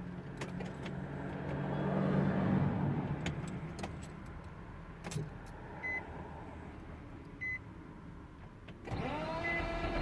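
A 2005 Nissan Maxima that won't start, on a start attempt: a whine rises in pitch about a second before the end and holds steady, instead of the engine catching. Before it there are scattered clicks and a few short high beeps.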